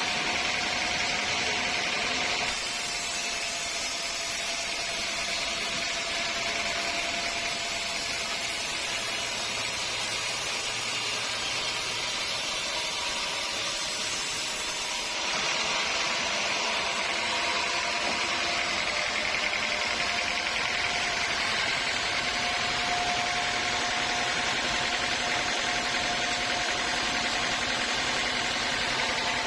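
Sawmill machinery running steadily: a constant machine noise with a steady hum-like tone and a high hiss. The sound changes abruptly twice, about 2.5 seconds in and again about halfway through.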